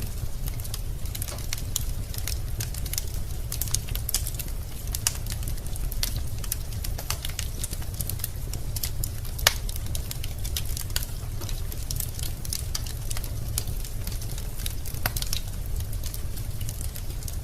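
Wood fire in a fireplace crackling: logs snap and pop irregularly over a steady low rumble, with one louder pop about halfway through.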